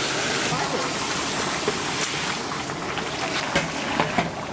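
Chopped dried fish and potato sizzling in a large steel cooking pan, a steady hiss, with a few sharp knocks and scrapes of the metal stirring paddle against the pan.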